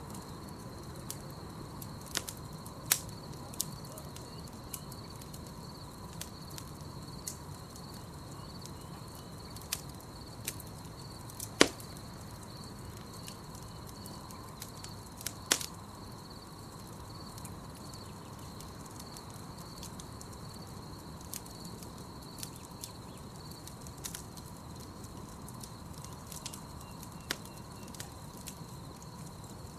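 Campfire crackling: irregular sharp snaps and pops, the loudest about a third of the way and halfway in, over a low steady rush and a steady high-pitched tone.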